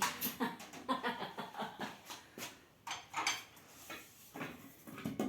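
Irregular light knocks, clicks and rustles as a newly unboxed microwave and its packaging are handled.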